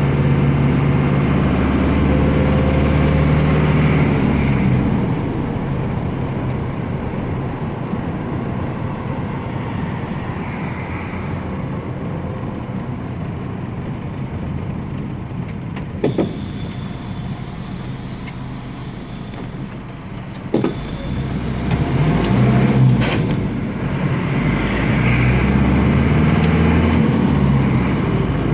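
Air-cooled Deutz F4L912 four-cylinder diesel of an Otokar M-2000 minibus running on the move. It is loud at first, then runs lower and quieter through the middle, where two sharp clicks are heard. It then pulls harder again near the end, its pitch rising and falling as it accelerates.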